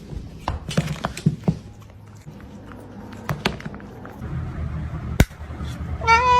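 Scattered light clicks and knocks, then near the end a cat lets out a loud meow that rises slightly in pitch.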